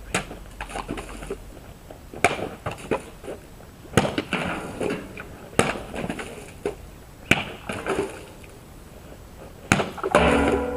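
A sword blade striking bottles in a series of cuts: six sharp hits about every one and a half seconds, each followed by a scatter of pieces clattering and falling. A louder, longer rush of noise comes near the end.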